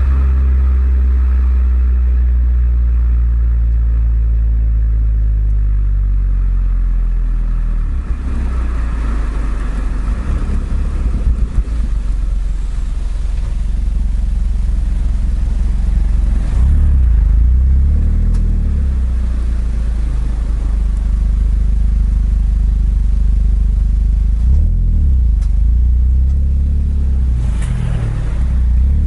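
Suzuki Swift Sport ZC32S exhaust note through an eight-year-old Kakimoto aftermarket muffler while driving. The engine's pitch rises and falls several times as the revs change.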